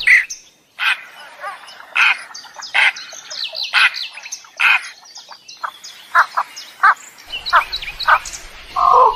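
Birds calling: a busy series of short, sharp chirps and squawks, some in quick runs, coming every fraction of a second throughout.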